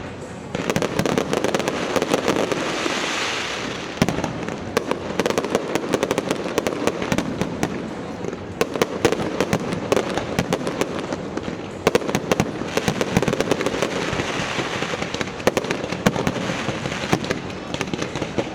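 Aerial fireworks display: a dense, continuous barrage of bangs and crackling, with louder reports scattered throughout.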